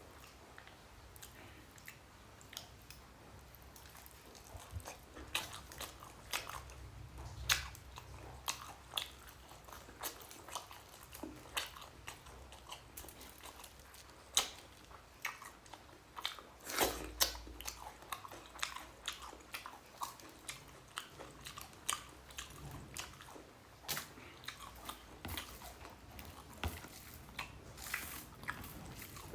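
A person eating rice and egg curry close to the microphone, chewing with wet mouth smacks and clicks that come irregularly, several to a few seconds apart.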